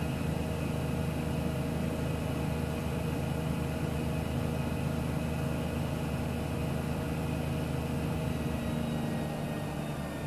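Miele W1 WKF 130 WPS washing machine running, a steady machine hum with several fixed tones. It eases slightly near the end.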